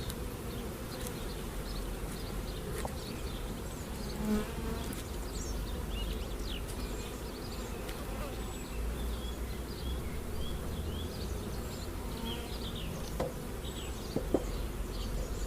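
Many honey bees buzzing in a steady drone around an open hive.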